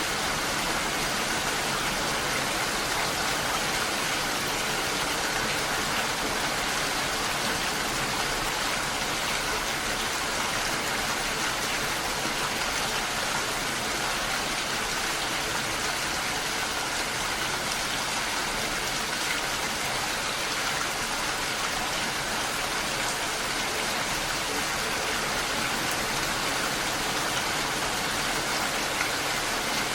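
Steady rainfall, an even hiss of rain falling on leaves and the ground.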